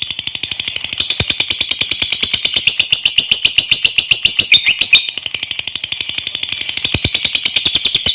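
Lovebird giving a long 'ngekek' chatter: an unbroken, rapid run of high, sharp notes at about ten a second, breaking off right at the end.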